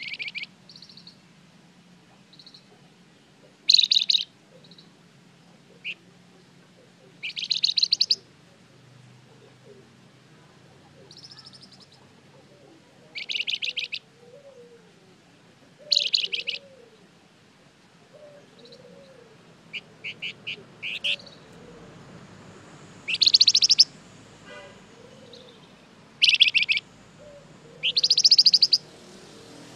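Flamboyan songbird singing: short bursts of rapid, high-pitched trilled notes, about a dozen phrases separated by brief pauses, with a few single chips between them.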